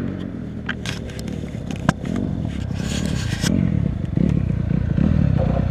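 An off-road vehicle's engine running, with a few sharp clicks and a short scraping rattle. The engine gets louder toward the end.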